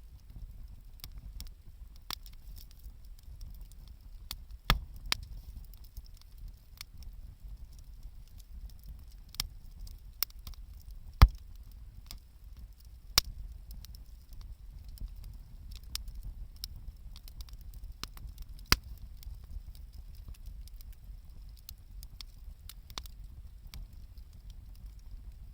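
Wood bonfire crackling, with irregular small pops and a few sharper snaps over a low steady rumble.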